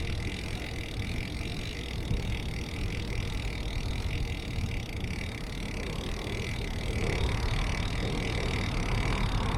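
Wind and rolling tyre noise on an action camera's microphone while riding a bicycle: a steady rumbling rush that grows louder near the end.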